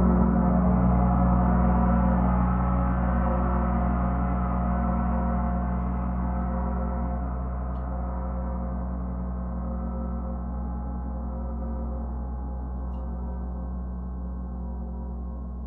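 A gong ringing on after being played, many overlapping tones over a deep hum, slowly fading and growing darker as its higher tones die away.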